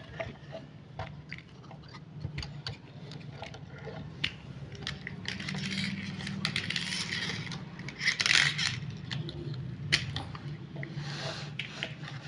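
Scraping and clicking handling noises, busiest in the middle, over a steady low hum.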